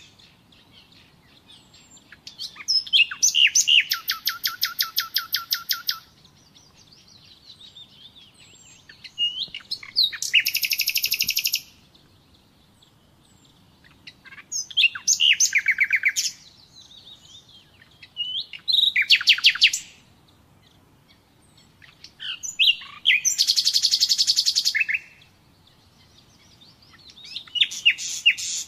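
Common nightingale singing: six phrases of fast repeated notes and trills, each a couple of seconds long, with short pauses between them that hold only faint softer notes.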